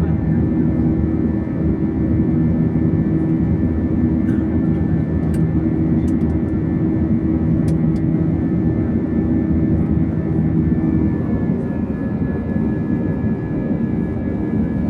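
Airbus A320 jet engines running at high power during takeoff and climb: a steady loud drone with a steady hum, whose tones change about eleven seconds in.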